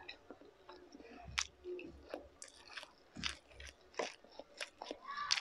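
Close-miked chewing of food: irregular sharp mouth clicks and smacks, a few a second.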